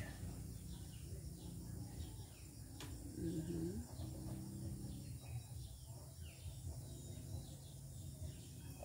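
Small birds chirping faintly and repeatedly over a steady low background hum. A single sharp click comes a little under three seconds in, and a brief low voice-like sound follows just after it.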